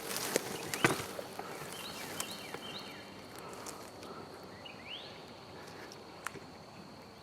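Quiet woodland: a few light rustles and clicks in the leaf litter at the start, then several short high bird chirps and a rising chirp, over a thin steady high tone in the second half.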